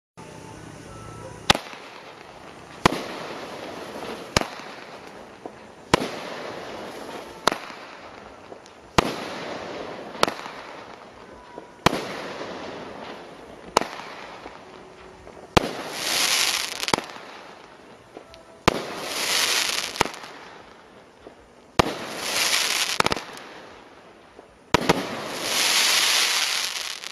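A consumer firework cake firing shot after shot, with a sharp bang about every one and a half seconds and a fading noise after each. The last few shots come about three seconds apart, and each is followed by a loud rush of hiss or crackle lasting a second or two.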